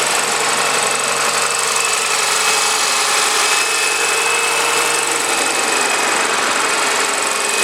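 Toyota Avensis 2.0-litre VVT-i D-4 four-cylinder petrol engine idling steadily with the hood open.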